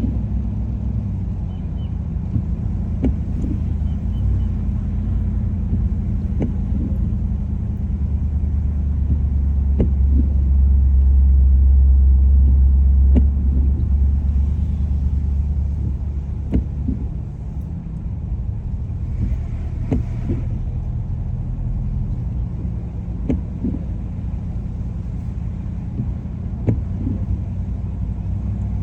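Low rumble of a car driving, engine and tyre noise that swells for several seconds in the middle and then settles, with scattered faint ticks.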